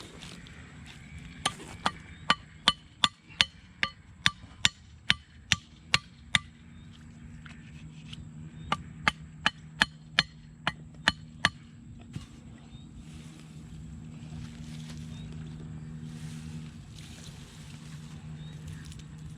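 Two runs of sharp, ringing blows at about two and a half a second, about a dozen strikes and then, after a short pause, about eight more, as something is repeatedly struck with a hammer or blade. A faint low steady hum sits underneath in the second half.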